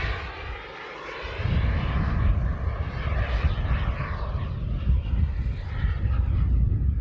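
Large RC model M-346 jet running. Its engine sound dips briefly about a second in, then comes back as a steady rush with a heavy low rumble.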